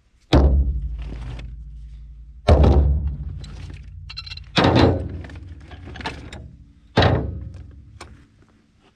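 Four heavy thunks about two seconds apart, each with a low decaying rumble after it.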